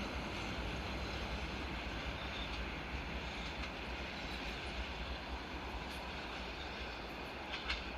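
Siemens Desiro diesel multiple unit running, a steady rumble that slowly fades, with a short clatter of clicks near the end.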